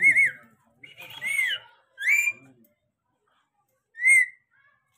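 A parrot giving short whistled calls: three in quick succession, then a fourth after a pause of nearly two seconds.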